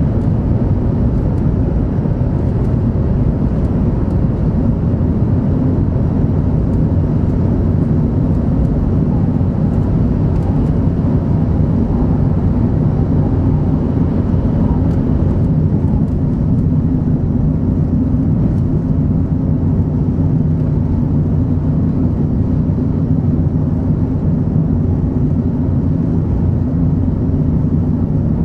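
Steady low rumble of a 500 Series Shinkansen train running at speed, heard inside the passenger cabin.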